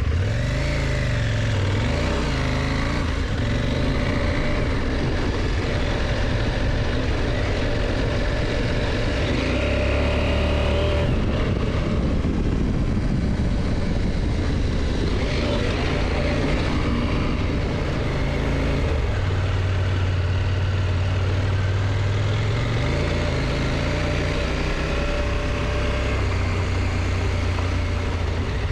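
KTM motorcycle engine running under way, its pitch rising and falling several times with throttle and gear changes, over steady wind and road rush.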